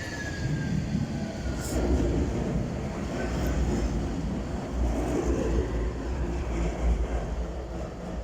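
Bombardier Incentro tram 212 passing on its rails: a low wheel rumble that swells and fades several times as the bogies go by, with a faint whine falling in pitch near the start.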